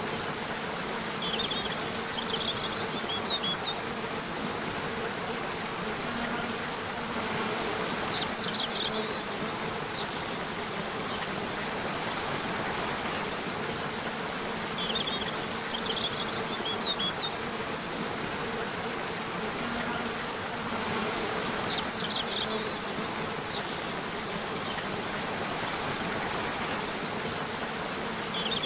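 Nature soundscape: a steady rushing like flowing water, with a faint insect buzz and clusters of short high chirps that recur about every six to seven seconds.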